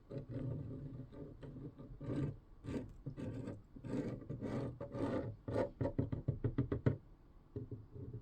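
Irregular clicks, taps and rubbing from 3D-printed plastic helmet pieces being handled while glue is run around an edge. A quick run of small clicks comes about two-thirds of the way through.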